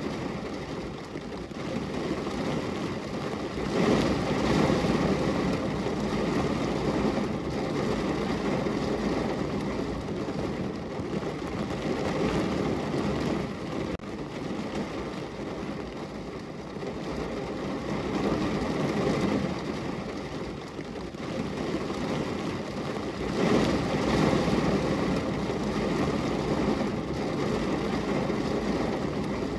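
Steady rain falling and pattering on a window pane, a dense even wash of sound that swells a little louder a few seconds in and again near the end.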